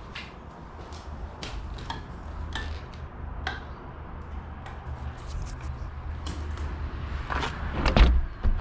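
4-wheeler running with a low, steady engine rumble under repeated clicks and rattling knocks from riding over rough ground. A louder bump with a low thump comes near the end.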